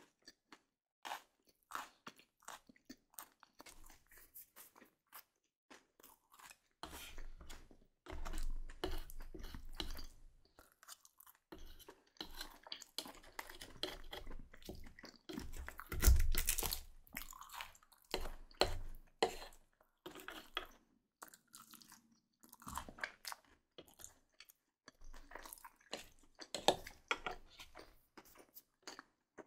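Close-miked chewing of food, with crunching and wet mouth clicks. A louder knock comes about halfway through.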